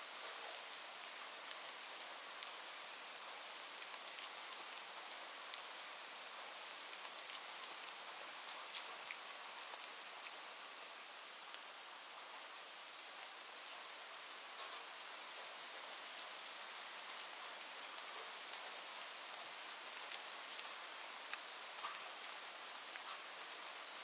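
Steady rain, an even hiss with many sharp drop ticks scattered throughout.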